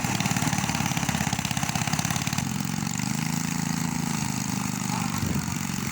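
Small engine of a homemade aircraft running steadily, briefly picking up speed about three seconds in before settling back.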